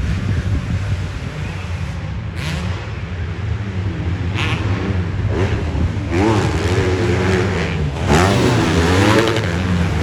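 Motocross bikes racing on a dirt track, their engines revving up and down with each throttle blip and shift. They grow louder in the second half as the bikes come closer.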